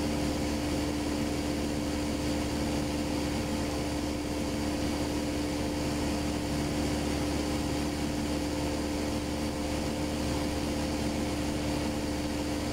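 Light aircraft's engine and propeller droning steadily in the cabin during level cruise, one unchanging hum.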